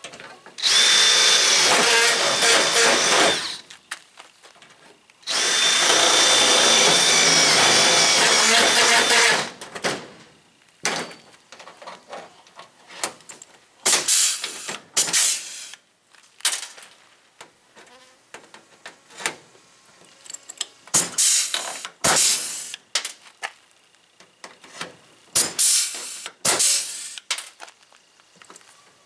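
Handheld power tool working sheet metal: two long runs of several seconds each with a steady high whine, then many short bursts as the trigger is pulled on and off.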